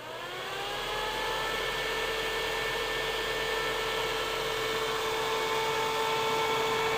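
1970s bathroom exhaust fan with a shaded-pole motor just switched on: it spins up, its whir rising in pitch over about the first second, then runs steadily with a constant hum tone.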